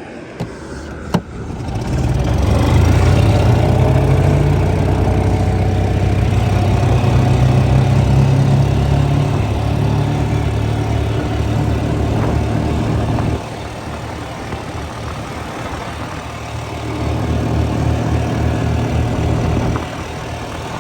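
Yamaha G9 gas golf cart's single-cylinder four-stroke engine speeding up and pulling the cart away about two seconds in, then running steadily under throttle. It drops back about two-thirds through and picks up again near the end.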